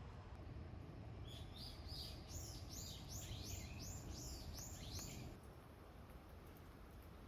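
A songbird singing a quick run of about a dozen repeated high notes, roughly three a second. It starts about a second in and stops about five seconds in, over a faint steady low background noise.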